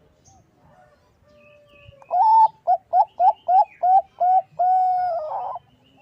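Bangkok-type perkutut (zebra dove) singing its cooing song: after about two seconds of quiet comes a long coo, then a quick run of about seven short coos, then a long drawn-out coo that turns rough at its end. The song is used as a lure call to draw rival doves.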